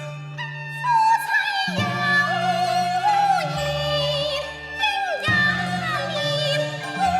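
Cantonese opera singing. A high female voice with wide vibrato enters about a second in over a Chinese instrumental ensemble of plucked and bowed strings. It sings long, bending phrases with a short break a little past the middle.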